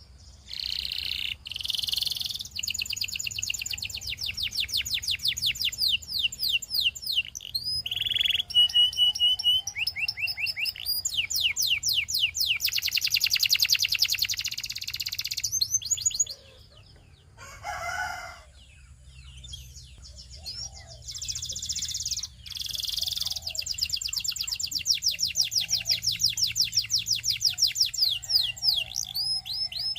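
Belgian singing canary singing a long song of fast repeated high notes and rolling trills in several phrases, with a short break about midway.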